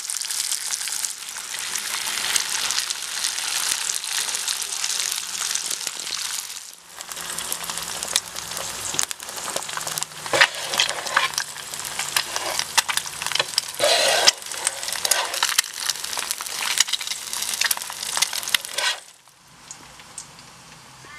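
Beef bacon and then eggs sizzling on a hot griddle: a dense, steady hiss with many sharp popping crackles. The sizzle breaks off briefly about seven seconds in and stops about two seconds before the end, where it gets much quieter.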